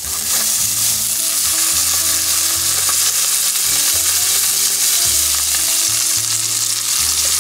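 Cherry tomatoes frying in butter in a hot skillet, a steady sizzle as they sweat.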